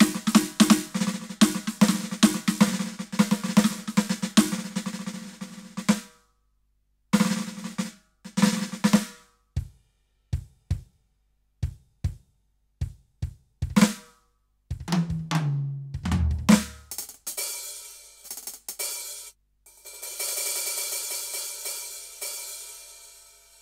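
Roland TD-17KVX electronic drum kit played through its module. A busy groove on snare, kick and hi-hat stops about 6 seconds in, then come separate snare and drum hits and a tom fill falling in pitch. A cymbal crash rings out and fades away near the end.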